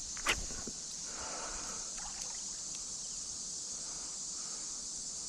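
A steady high-pitched chorus of insects, likely crickets, with a single sharp click about a third of a second in.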